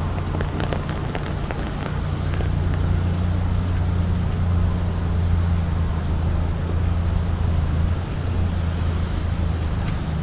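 Steady low rumble of city street traffic, with a few light clicks in the first couple of seconds.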